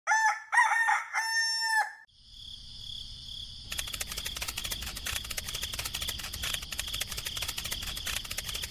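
A rooster crowing once for about two seconds. After a short pause, a steady mechanical whir with a high tone starts, and about a second later rapid dense ticking joins it.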